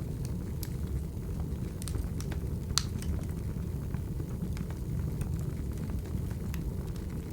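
Wood fire crackling: a steady low rumble with scattered pops, and one sharper crack about three seconds in.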